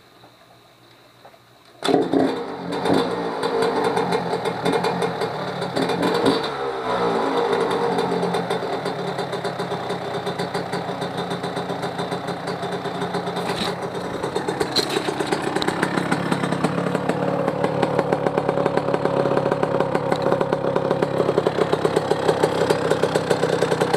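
1997 Yamaha YZ125 two-stroke single-cylinder motocross engine kick-started on its first start after a top-end rebuild with a new cylinder, catching suddenly about two seconds in. It is blipped a few times, then runs steadily with a fast popping rhythm that picks up slightly in the second half; to its owner it sounds pretty good.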